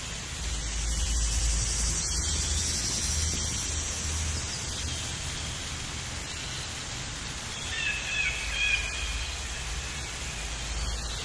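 Steady outdoor noise with a low rumble, like wind or rain on the microphone, with a short burst of high chirping calls about eight seconds in.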